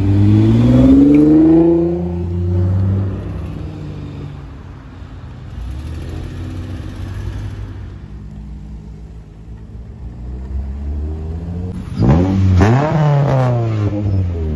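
Cars accelerating away one after another. A Nissan GT-R's engine note climbs as it pulls off at the start, and a quieter engine passes in the middle. About twelve seconds in, a Honda Civic is revved hard, its revs climbing and dropping sharply several times in quick succession.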